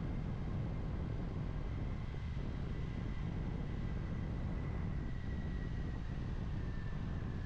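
Kawasaki Ninja 400 parallel-twin engine running at a steady cruise, mixed with a steady low wind rumble on the helmet mic. A faint high whine sits above it and drifts slowly lower near the end.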